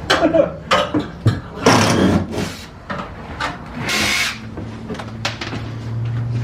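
Demolition work inside a coach bus: a run of sharp knocks and clattering from tools and parts being pried loose, with a short hiss about four seconds in. A low steady hum comes up in the second half and grows louder toward the end.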